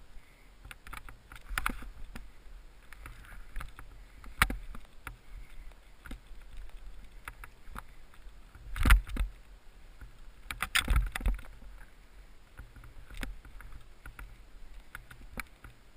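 Skis running through powder snow, picked up by a GoPro camera, with irregular knocks and thumps; the loudest thump comes about nine seconds in and a cluster follows around eleven seconds.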